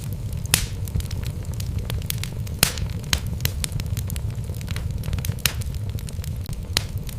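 Wood fire burning in a fireplace: a steady low rumble of flames with irregular crackles and sharp pops from the burning logs, a few louder pops standing out.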